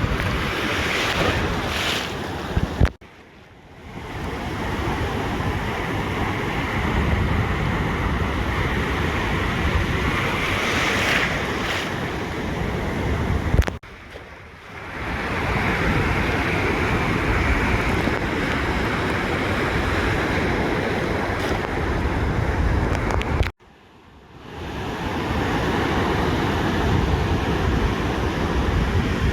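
Ocean surf washing on a beach, with wind noise on the microphone and swells of breaking waves. Three times, about every ten seconds, the sound cuts out suddenly and fades back in about a second later.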